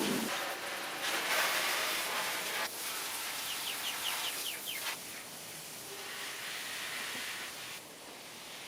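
A hiss of water spray that changes in strength, loudest in the first few seconds and fading later. In the middle a bird gives a quick run of about eight short chirps.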